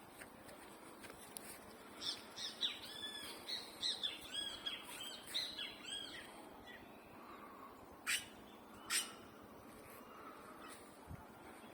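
Bird song: a quick run of arched, chirping notes lasting about four seconds, followed later by two sharp clicks a second apart.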